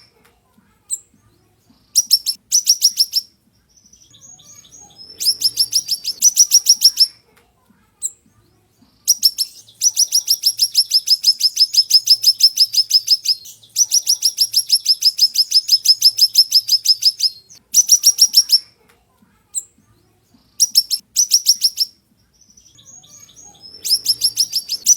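Siri-siri songbird singing sharp, fast trills of repeated high notes, about eight notes a second, in bursts of one to four seconds with the two longest in the middle, and a few single short chirps in the gaps.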